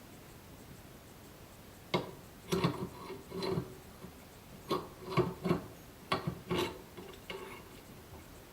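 Irregular light knocks and clicks of hard objects being handled, starting about two seconds in and coming in small clusters for about five seconds.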